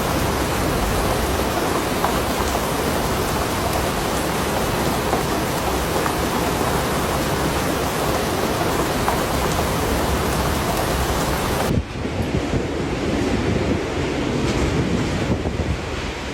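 Typhoon-force wind buffeting the microphone as a loud, steady rushing noise, with surf beneath it. About twelve seconds in it switches abruptly to a similar but duller wind-and-water noise.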